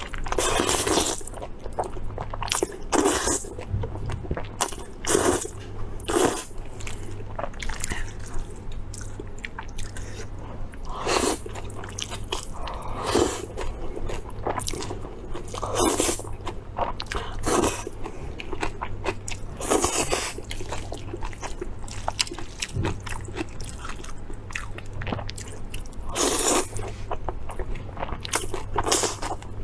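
Close-miked eating: a person biting and chewing food, with crunchy bites landing every second or two at an uneven pace.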